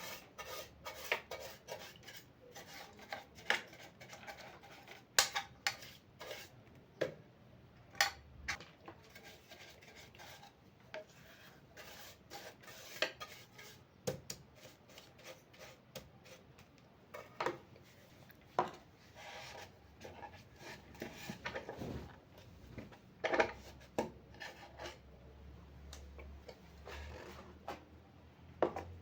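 Rubbing and scraping with irregular sharp clinks and knocks of metal: the oil sump of an industrial straight-stitch sewing machine being wiped and scraped clean.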